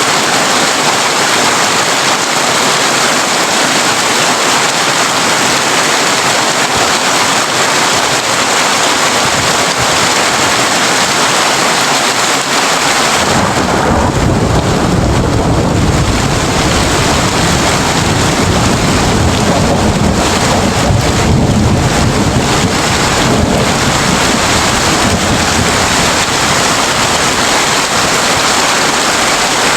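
Heavy rain drumming steadily on a tin roof. About halfway through, a long, low roll of thunder rumbles in, lasts roughly ten seconds, then fades away under the rain.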